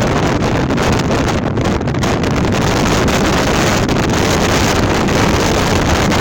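Gale-force wind blowing hard and steadily, with heavy wind noise on the microphone.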